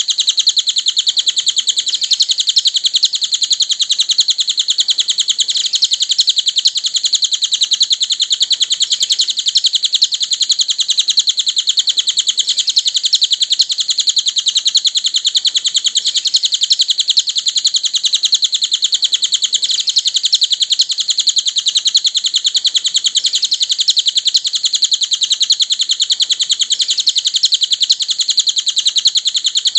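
Cililin song played as a masteran recording for training cage birds: an unbroken, fast, high-pitched twittering chatter of rapidly repeated notes, without pauses.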